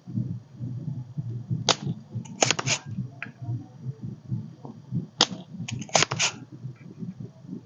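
Sharp clicks and snaps from hand tools working on a circuit board, in several short clusters, over a steady low rumble.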